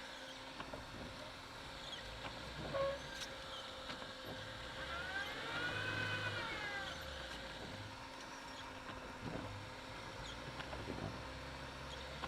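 Lada Niva (VAZ-2121) driving, heard from inside as a low steady engine and cabin drone with a faint steady whine. About five seconds in, a brief tone with overtones rises and then falls away over two seconds.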